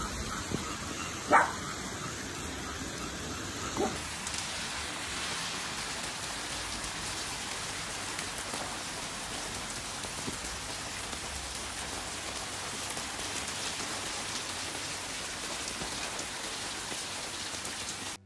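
Heavy rain pouring down on flooded ground and foliage, a steady hiss. In the first few seconds a dog barks, twice sharply and once more faintly. The rain cuts off abruptly near the end.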